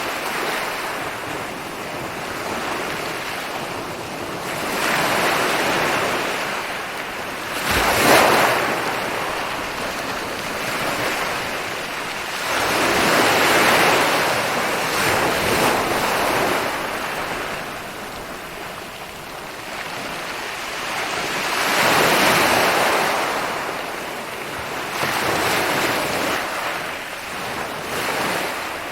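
Ocean waves rolling in and breaking on a beach, each wash of surf swelling and fading every few seconds, with a sharper crash about eight seconds in. Wind is heard underneath.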